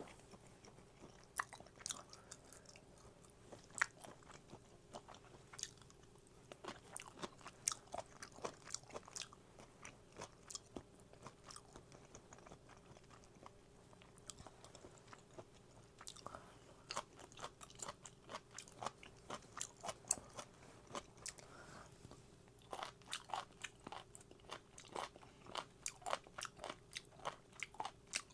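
Close-miked chewing and biting of food: irregular crisp, wet crunching clicks, coming in quicker runs in the second half.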